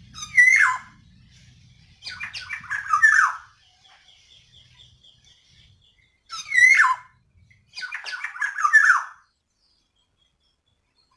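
Female black-naped oriole (kepodang) calls used as a lure for a male oriole that is slow to sing: twice, a short clear call sliding down in pitch, followed by a longer, harsher chattering phrase, the two rounds nearly identical.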